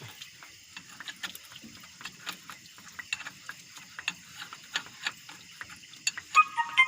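Irregular clicking and ticking of hand tools working on metal fittings of an excavator engine, with a few short ringing metal clinks near the end.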